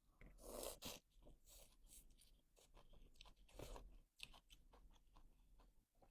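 Close-up chewing of crunchy food, an irregular run of crackles and crunches, loudest just after the start and again a little past halfway.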